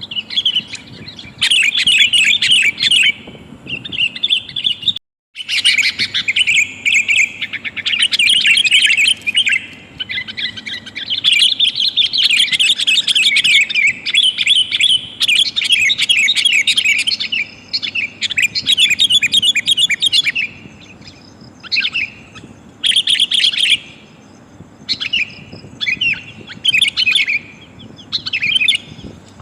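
Sooty-headed bulbul calls in loud, fast chattering bursts, given as a female calling to males as a trapping lure. There is a short gap of total silence about five seconds in.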